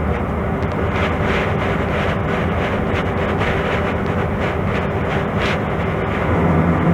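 Mercedes-Benz O-500MA bus's Bluetec 5 diesel engine, with Voith automatic gearbox, running steadily under way, with light rattles; the low engine note swells near the end.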